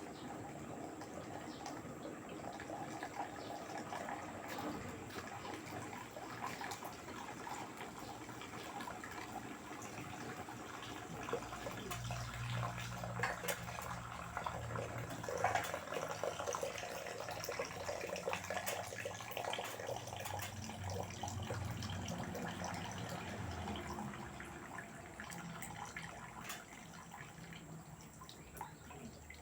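LG direct-drive washing machine mid-wash on a Cotton 60°C cycle: water sloshing and splashing in the drum. About twelve seconds in, a low hum joins for roughly twelve seconds, then fades.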